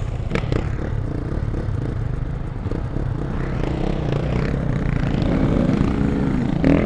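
Dirt bike engine running while riding a trail, with some clatter from the bike; near the end the revs rise and fall.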